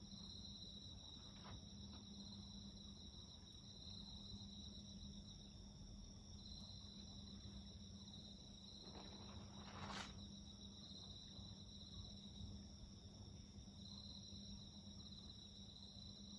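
Faint, steady chirping of crickets or other night insects, with a few soft crackles from a wood fire, the sharpest about ten seconds in.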